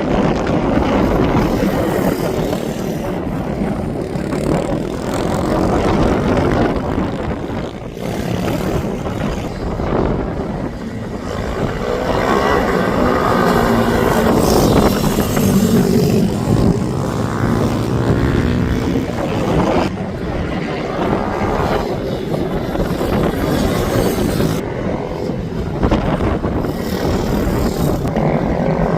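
Racing minibike engines running on track, several at once, their pitch rising and falling as the bikes accelerate, change gear and pass.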